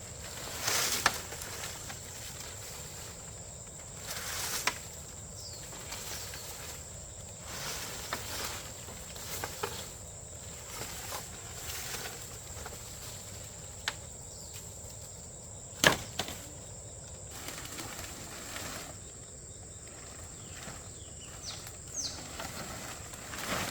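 Irregular knocks and taps of wood or bamboo being handled and worked, one sharp knock about sixteen seconds in, over a steady high drone of insects. A few short bird chirps come near the end.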